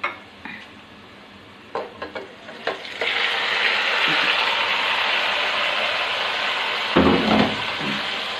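A few knocks and clinks, then from about three seconds in a sudden, steady sizzle as yogurt-marinated chicken hits hot oil and fried onions in the pot and is stirred with a wooden spatula. A louder scraping bump comes about seven seconds in.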